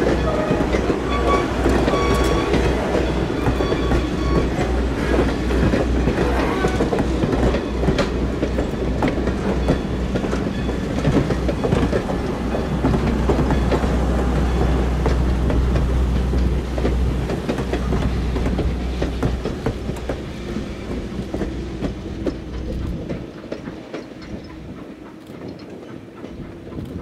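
Wooden and steel passenger coaches of a heritage train rolling past, wheels clicking over the rail joints over a steady low rumble. The sound fades out as the last car goes by, from about seventeen seconds in.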